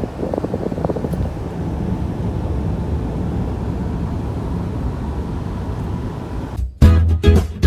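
A steady low rumbling noise that cuts off suddenly near the end, where plucked guitar music begins.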